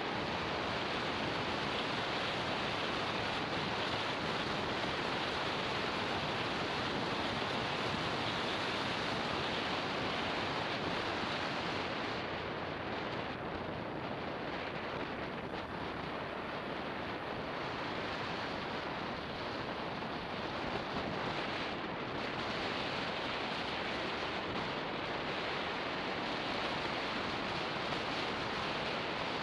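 Wind rushing over the camera's microphone on a motorbike riding downhill: a steady, even rush that drowns out any engine note, easing a little for a while in the middle.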